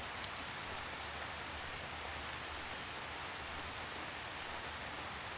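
Light rain falling steadily, an even soft patter with a few single drops ticking.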